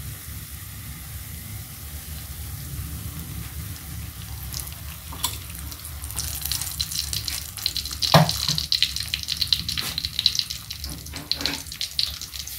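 Raw cassava chip dough rounds frying in shallow oil in a wok: the sizzle and crackle build up from about five seconds in as more pieces go into the oil, over a low steady hum.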